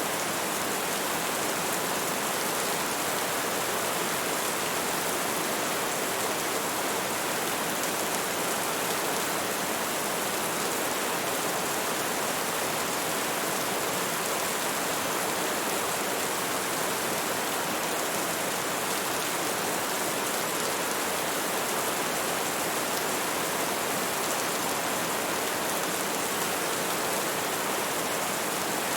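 Steady rain falling, an even hiss of drops without pause or change.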